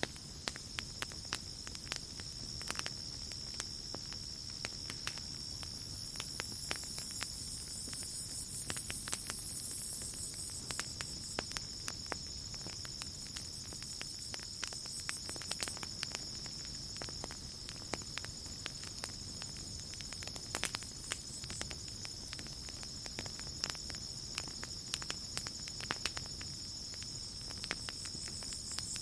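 Campfire crackling with irregular sharp pops over a low, even rush of burning, while crickets chirp in a steady high trill.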